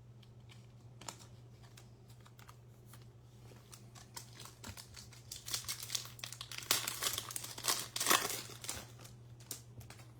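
Foil wrapper of a trading card pack being torn open and crinkled by hand, the crinkling building about halfway through and loudest near the end, after a few light clicks of cards being handled.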